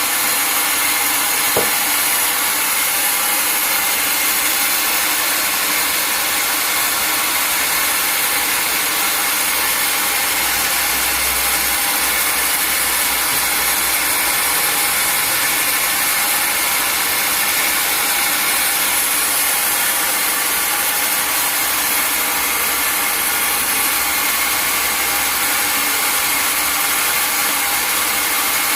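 Sawmill saw running and cutting through a log: a steady mechanical whine and rasp with engine noise underneath, unchanging throughout.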